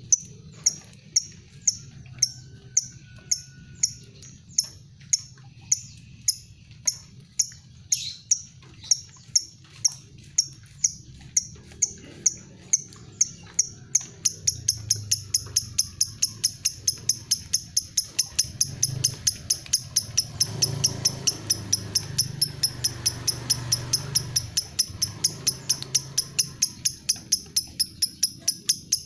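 Lovebird 'ngetik' ticking call: a string of short, sharp, high ticks, about two a second at first and quickening to about four a second about halfway through. A faint low hum sits under it.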